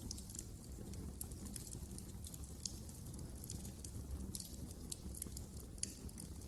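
Wood fire crackling in a fireplace: a steady low rumble of flames with irregular small crackles and a few sharper pops.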